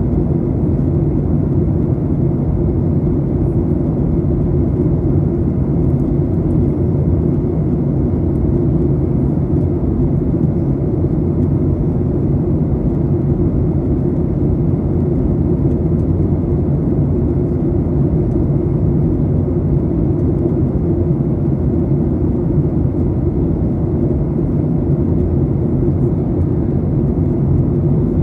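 Steady low rumble of engine and air noise inside the cabin of a Boeing 737-800 airliner in flight.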